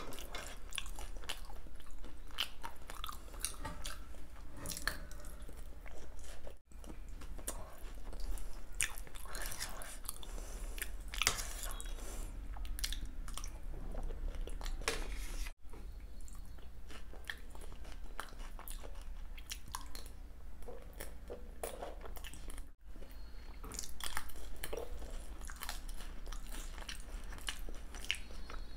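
Close-up chewing and biting of mouthfuls of dahi golgappa, crisp puri shells soaked in yogurt, with wet crunching and crackling in the mouth.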